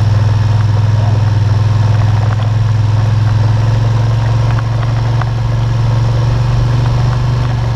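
ATV engine running steadily with a low, even hum that eases slightly about halfway through.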